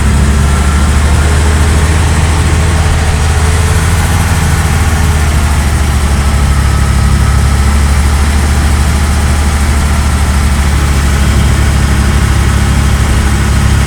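Truck's diesel engine idling steadily, a loud, even low hum heard from inside the cab.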